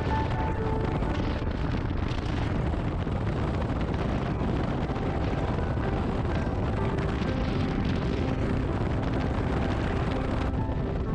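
Steady wind rumble buffeting the microphone on a moving motorcycle.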